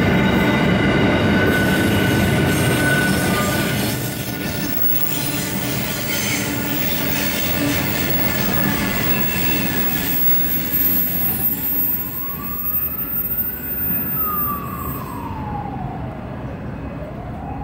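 Empty open steel wagons of a freight train rolling past over the rails, with wheel squeal, the noise easing as the last wagons go by. From about halfway through, a siren wails slowly up and down.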